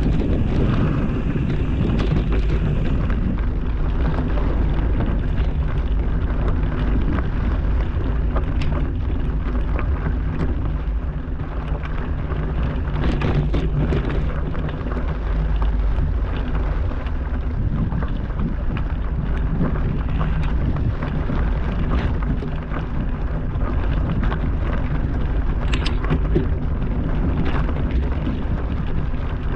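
Wind buffeting the microphone of a moving camera, with constant rumble and scattered clicks and knocks from riding over a rough trail.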